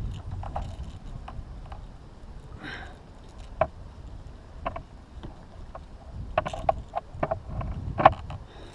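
Scattered knocks and clicks on a plastic kayak, the loudest about eight seconds in, over a steady low rumble.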